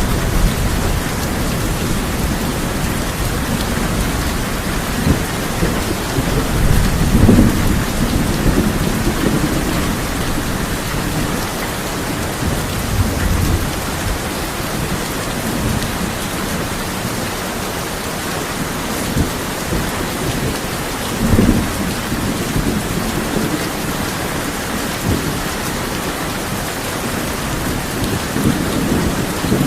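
Steady heavy rain drumming on a tin roof, with low rumbles of thunder that swell about seven seconds in, again around twenty seconds in, and near the end.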